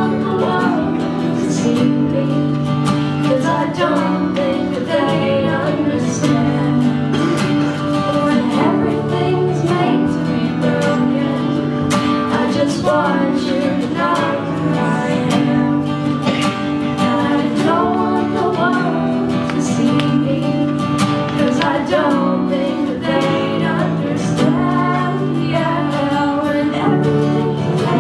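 Live acoustic guitar music: a melody moving over held low notes.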